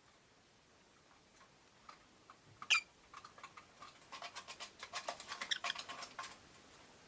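Rosy-faced lovebird giving one sharp high chirp about two and a half seconds in, followed by a quick run of dry clicking ticks, about eight to ten a second, that stops about a second before the end.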